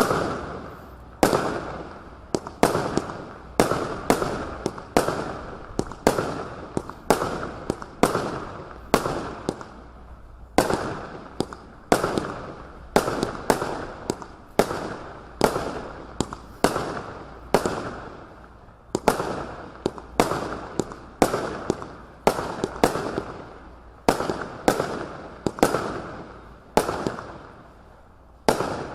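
Kimbolton Fiery Imp 81-shot firework barrage firing, one sharp shot after another at one or two a second, each bang trailing off quickly, with a few brief pauses between runs.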